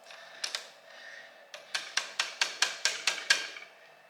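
Hand-tool work on an engine during cylinder head bolt removal: two single sharp knocks, then a quick, even run of about ten sharp clicks or taps at roughly five a second.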